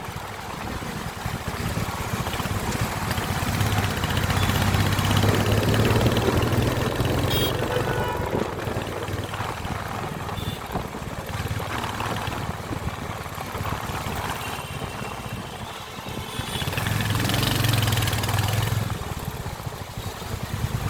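Royal Enfield Hunter 350's single-cylinder engine running, growing louder twice: a few seconds in and again near the end.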